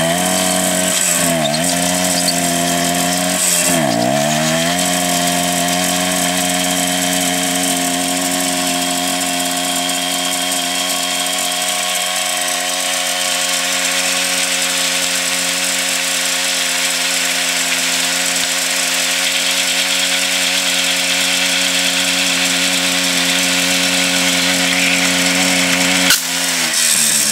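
Simson motorcycle's small two-stroke engine held at high revs during a burnout, the rear tyre spinning on the asphalt. The revs dip and climb back twice in the first few seconds, then hold steady for about twenty seconds. About 26 seconds in there is a sharp crack, and the revs drop and waver.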